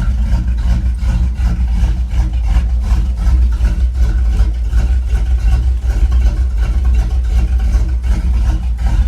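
Carbureted Mopar 360 V8 with a big cam idling low and steady while still cold, around 600 rpm, heard from inside the truck's cab.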